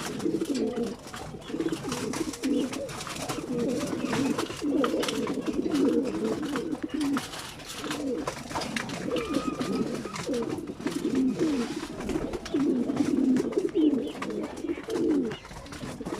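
Many racing pigeons cooing at once in a loft: overlapping low, warbling coos that carry on without a break.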